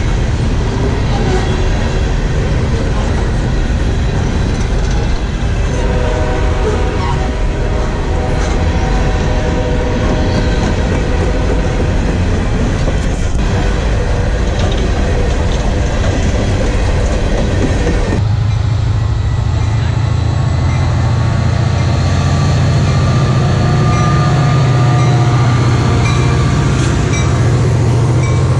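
Freight train cars rolling past at close range: a steady loud rumble and clatter of steel wheels on the rails, with thin ringing squeal tones at times. About two-thirds of the way through, the rumble changes abruptly to a deeper, heavier tone.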